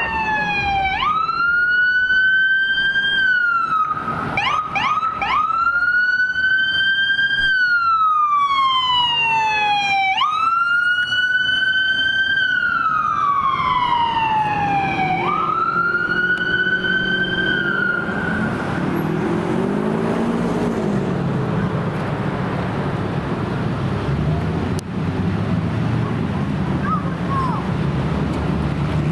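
Emergency vehicle siren in wail mode: the pitch sweeps up quickly, holds, then slides down over several seconds, repeating, with a brief flurry of quick chirps about four seconds in. The siren cuts off about eighteen seconds in, leaving engine and road noise from passing vehicles.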